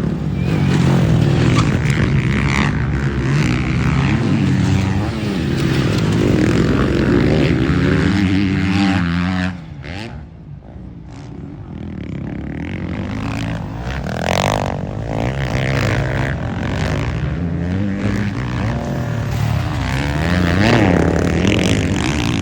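Motocross dirt bike engines revving and running at race speed, the pitch rising and falling with the throttle. The sound drops away sharply about nine and a half seconds in, then builds again.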